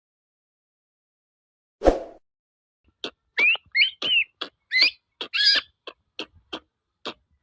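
Young long-tailed shrike (cendet) singing a fast run of short, clipped notes mixed with curving whistled notes, starting about three seconds in. A single thump comes about two seconds in, before the song.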